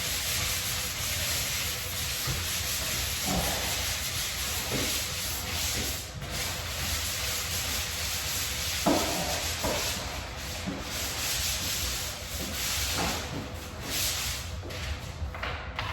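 Drywall being sanded: abrasive rubbing over the wall surface in a continuous rough scrape, with brief louder strokes now and then.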